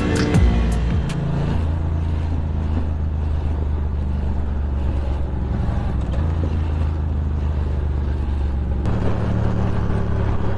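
Motorcycle engine running steadily while riding, its note stepping to a new pitch a few times and changing abruptly near the end.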